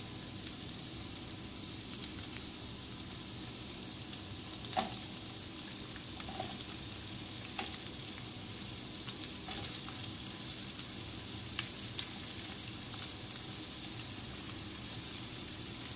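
Oil sizzling steadily in a non-stick wok as carrot and capsicum strips are tipped in on top of shredded chicken, with a few light knocks now and then.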